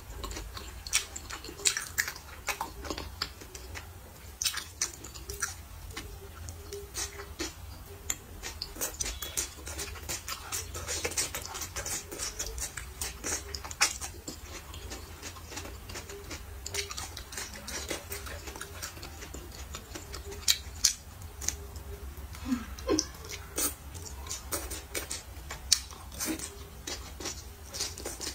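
Close-up eating sounds: a person chewing and smacking their lips over food, a run of irregular wet clicks and smacks.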